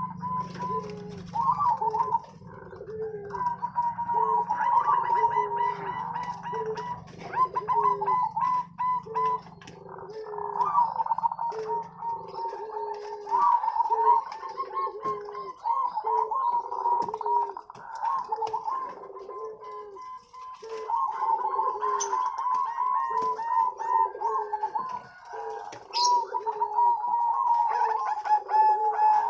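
Zebra doves (perkutut) cooing in chorus: many birds' repeated staccato coo phrases overlapping without a break, the song used as a masteran to train young perkutut. A faint low hum underneath stops about twelve seconds in.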